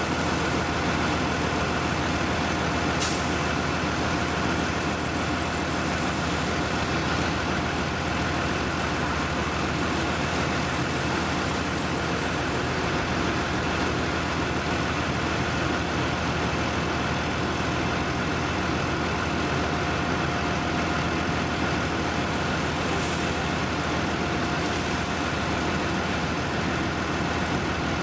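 Heavy road-construction machinery running steadily, a constant engine drone with a steady hum. A single click comes about three seconds in, and a faint high whine comes and goes in the first half.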